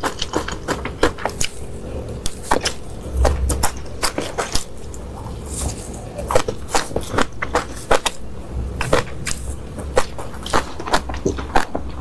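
Eating sounds picked up close to the mouth: chewing with many irregular sharp clicks and crunches.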